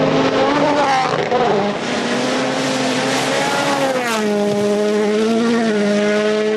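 Rally car's engine running hard at high revs, its pitch dipping and climbing through gear changes, with a sharp drop about four seconds in as the driver lifts or shifts down, then settling to a steady note.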